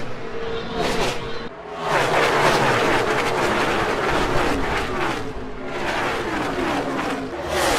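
NASCAR Gen 6 stock cars' V8 engines running at racing speed. There is a brief dip about a second and a half in, then a louder stretch of several engines whose pitch keeps sliding up and down.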